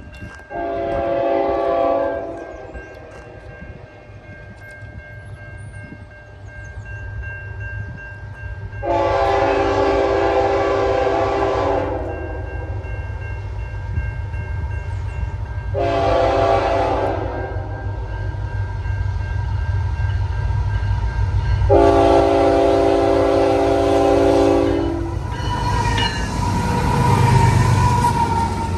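CN GE Evolution-series (GEVO) freight locomotive's five-chime Nathan K5HL air horn blowing four times, long, long, short, long: the grade-crossing signal as the train approaches. A steady electronic crossing bell rings throughout. The diesel rumble of the train builds and swells as the locomotives reach the crossing near the end.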